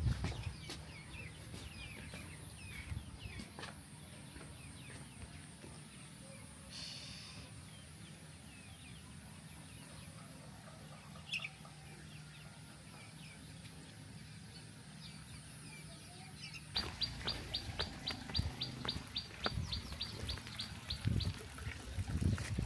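Small birds chirping in short high notes over a steady high-pitched whine. About two-thirds of the way in the background changes abruptly, and a quick run of about fifteen evenly spaced high chirps follows, nearly four a second.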